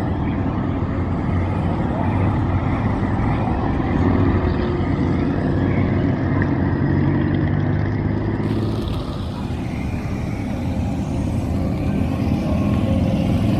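Motorcycle engines running steadily during a group ride, with a low continuous engine drone throughout.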